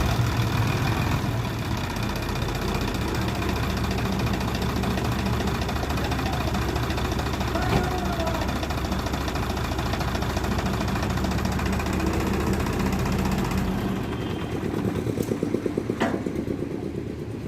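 Diesel engine of a Sonalika DI 45 RX tractor running steadily at idle. About fourteen seconds in, the low hum drops away and a faster pulsing takes over, with a sharp click near the end.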